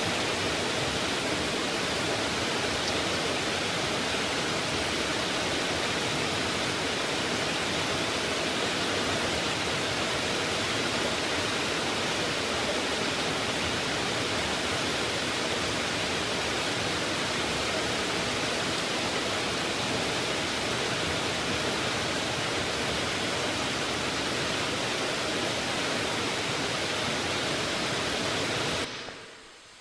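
Heavy rain pouring, a dense steady hiss of falling and running water that cuts off about a second before the end and fades away.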